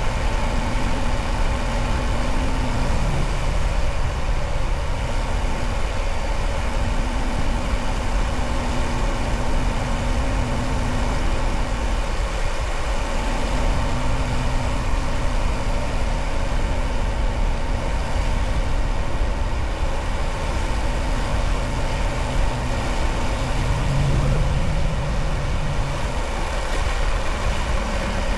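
A vehicle engine running steadily at an even, idle-like speed, with a constant low rumble.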